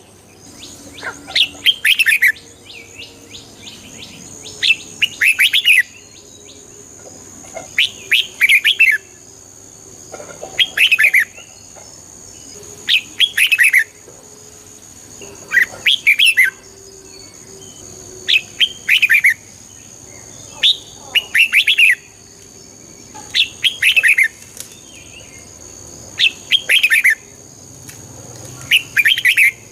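Red-whiskered bulbul singing short, clear phrases of a few quick notes, one every two to three seconds.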